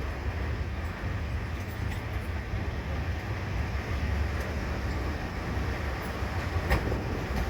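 Train rolling with a steady low rumble, and one sharp clack near the end.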